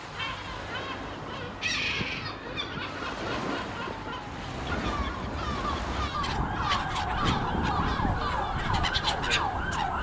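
Gulls calling over a steady background noise. About six seconds in, a gull breaks into a fast run of short, repeated laughing calls.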